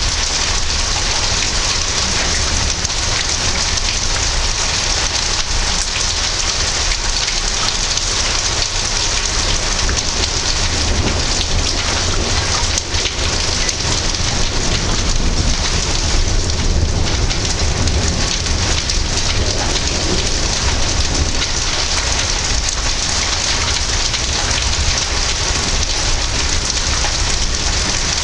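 Heavy rain falling steadily during a thunderstorm, with a low rumble of thunder swelling about halfway through.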